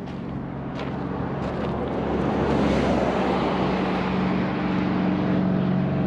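A car engine running close by, growing louder over the first two or three seconds and then settling into a steady hum.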